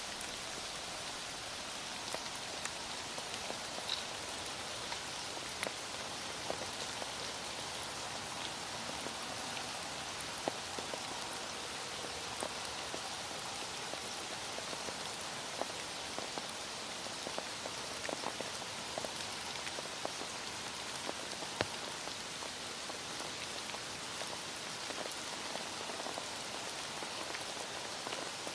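Heavy rain falling steadily, with scattered sharp drips of individual drops striking a surface.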